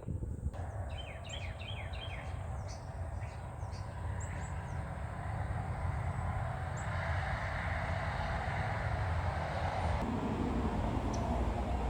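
Small birds chirping: a run of short, high chirps in the first few seconds, then a few scattered ones, over a steady low rumble that swells in the second half.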